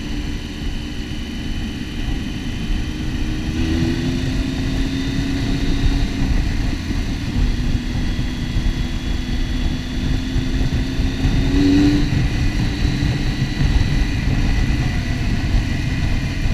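Motorcycle engine running on the move, heard from the rider's helmet over a steady wind rumble; the engine note climbs and then drops twice, about four seconds in and again near twelve seconds.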